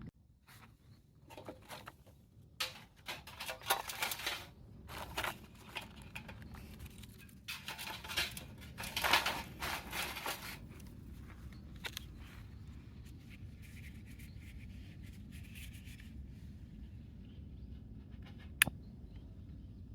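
Bursts of rustling, scratching handling noise through the first half, like packaging or gear being handled or torn open, then quieter, with one sharp click near the end.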